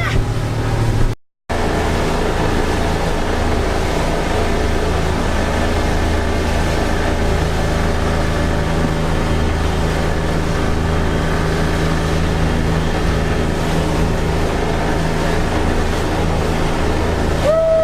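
Motorboat engine running steadily at a constant pitch, with a short total dropout in the sound about a second in.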